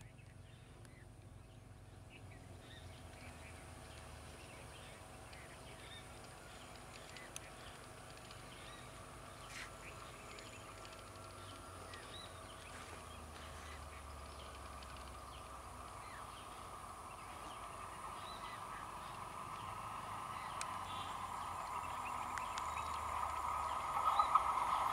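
An electric multiple-unit suburban train approaching along the track. Its steady high hum fades in about halfway through and grows steadily louder toward the end, with scattered short bird calls over it.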